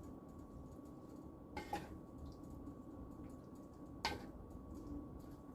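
Spoon working through ground turkey and hominy soup in a pan: soft wet squishing with two sharp clinks of the utensil against the pan, the second louder, over a low steady background hum.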